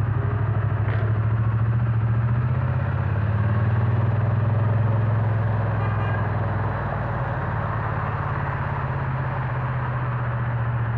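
Triumph Bonneville T100's 900cc parallel-twin engine running through its pea-shooter silencers, a steady low exhaust note. It swells slightly and then eases back about two-thirds of the way through.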